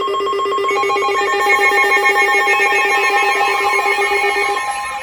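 Weather alert radios sounding their alarms for a new warning, several at once: steady electronic tones layered with fast pulsing beeps, and a wavering tone joining about three seconds in.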